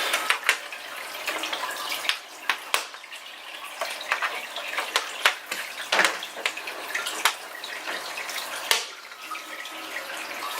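Water trickling and splashing steadily from a running aquarium filter, with irregular sharp clicks and knocks of plastic aquarium light parts being handled.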